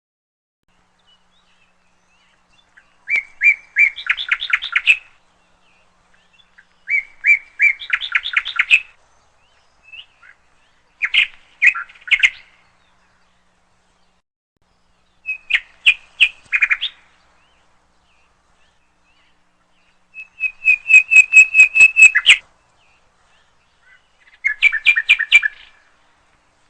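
A bird chirping in six short bouts of rapid, high chirps and trills a few seconds apart. The loudest and longest bout, a run of evenly spaced chirps, comes about twenty seconds in.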